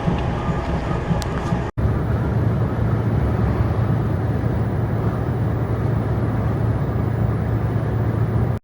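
Steady in-cab drive noise of a moving semi truck: a low engine drone with road and wind rush, cutting out for an instant about two seconds in.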